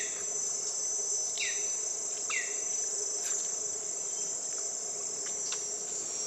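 Steady, high-pitched chorus of insects trilling without a break, with a few short downward-sweeping chirps, three of them in the first two and a half seconds.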